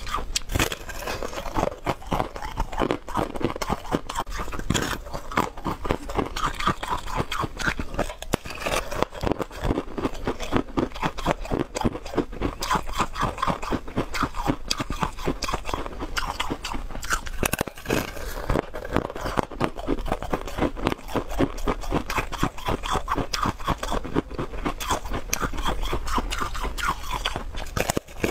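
Close-up crunching and chewing of a hard, frosted frozen block: loud crisp cracks in quick succession as it is bitten and chewed, with hardly a pause.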